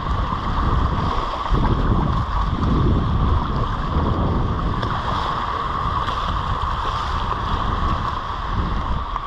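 Steady wind buffeting the microphone over the wash of surf.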